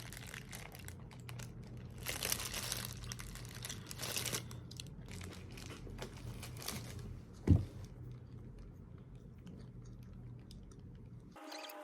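Paper wrapping of a McDonald's sausage muffin being unwrapped and crumpled. The crinkling comes in bursts about two and four seconds in, over a steady low hum, with a single low thump about halfway through.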